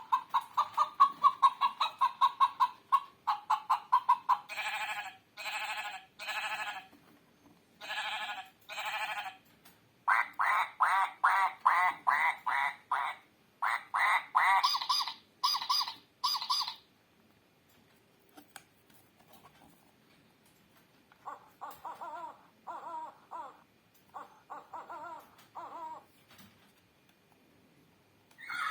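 Recorded animal calls played from a children's farm-and-forest sound book. A fast run of short calls at first, then several groups of separate calls with short pauses between them.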